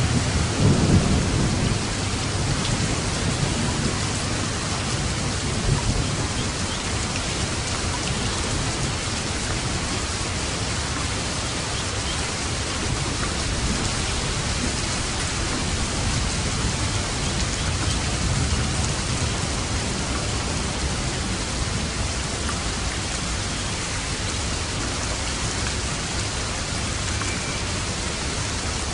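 Steady rain falling on a roof. A low thunder rumble at the start fades out within the first couple of seconds, leaving even rain hiss.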